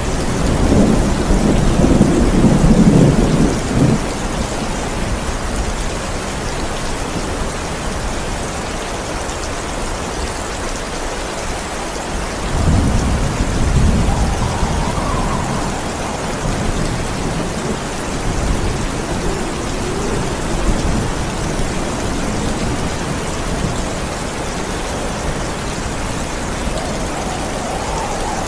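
Steady rain with thunder rumbling twice: a loud low rumble about a second in that fades after a few seconds, and another about halfway through.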